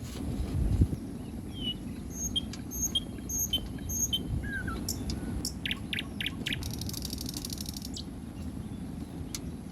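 Wild birds chirping: short high chirps repeating about twice a second, then a few sharper calls and a buzzy trill. A low steady rumble runs underneath, with a brief thump about a second in.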